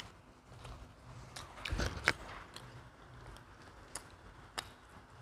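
Pizza being bitten and chewed: scattered small mouth clicks, with a short cluster of louder bite noises about two seconds in.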